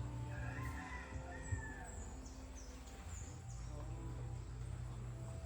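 A rooster crowing once, a wavering call from about half a second in to nearly two seconds, over a steady low hum of soft background music.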